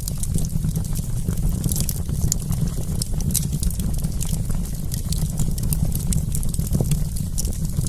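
Wood campfire crackling: many small, irregular sharp pops and snaps over a steady low rumble.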